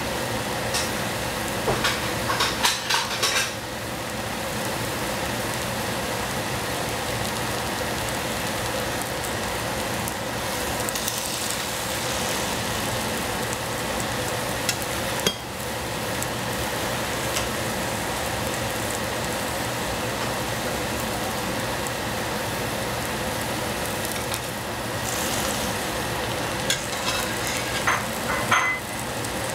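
Shiitake mushrooms and cabbage sizzling steadily in a stainless-steel saucepan, with a few short clinks of metal near the start and again near the end.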